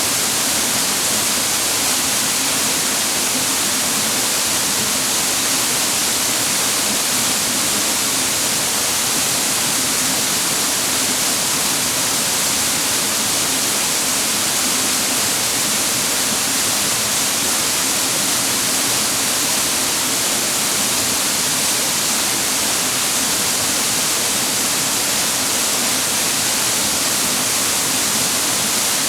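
Waterfall water rushing and splashing steadily, a dense, unbroken hiss.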